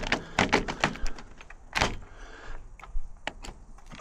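Irregular metal clicks and knocks of UPVC door gearbox parts being handled and fitted back together, the loudest just under two seconds in.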